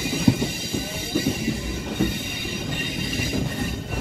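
MEMU electric train running slowly, heard from its open door: wheels rumbling on the rails with a few irregular knocks and a steady high squeal.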